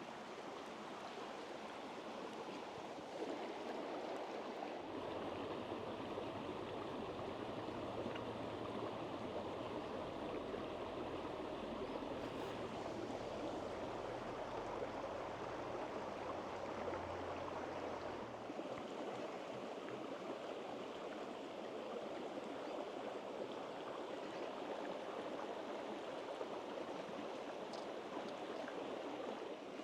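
Stream water flowing and rushing steadily. A low hum runs under it from about five seconds in until about eighteen seconds in.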